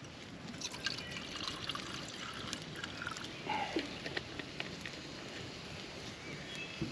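Faint trickling water, with scattered small clicks and crackles.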